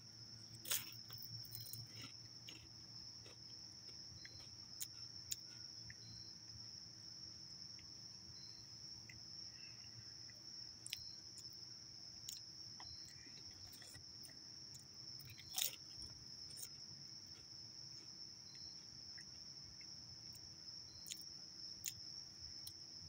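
Faint chewing of a Pringles potato crisp, with a few sharp crunches spread out, over a steady high-pitched insect drone.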